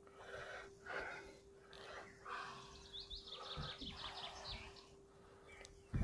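A songbird's quick trill of about a dozen high notes about three seconds in, over soft repeated breathing close to the microphone and a faint steady hum.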